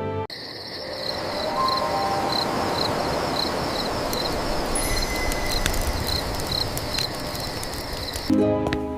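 Crickets chirping in an even rhythm of about two chirps a second over a steady hiss. It starts just after the beginning and cuts off suddenly shortly before the end.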